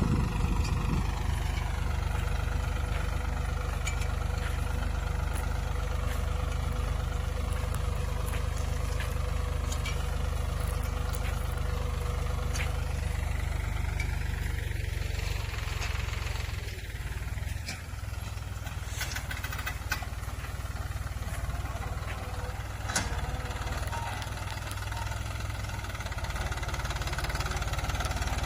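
Tractor engine running steadily with a low rumble, with a few faint clicks over it.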